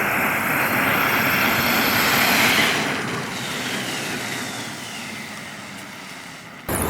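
Traxxas X-Maxx RC monster truck driving, its electric motor whining over the tyre noise, then fading away with a falling pitch before the sound cuts off near the end.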